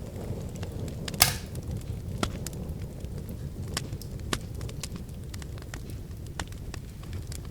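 Wood fire in a fireplace crackling, with scattered sharp snaps over a low rumble of flame and one loud pop about a second in.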